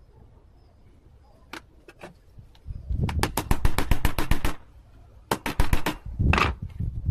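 Pliers and wire worked against a plastic chair: two quick runs of sharp clicks and rattles, then a short scrape.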